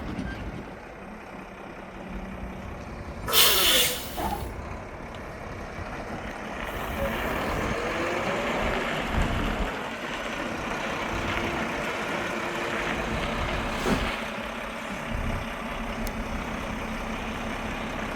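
Truck engine running as the truck maneuvers, with a loud, short hiss of compressed air from the air brakes about three seconds in. The engine picks up from about six seconds in, and there is a brief sharp sound near the end.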